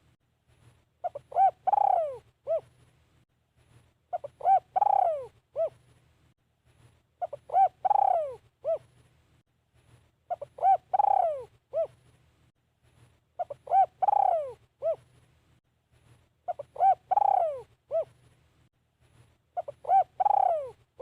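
Spotted dove cooing its song over and over, one phrase about every three seconds: two short coos, a longer falling coo, then a short final coo.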